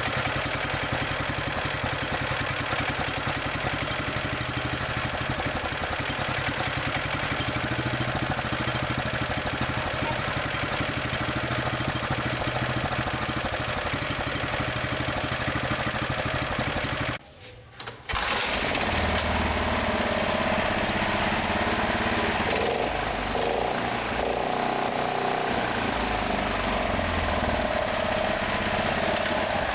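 Yanmar RM82U small gasoline engine running, with its carburetor cleaned. Its sound drops out sharply for about a second past the middle, then returns with a stronger, higher tone.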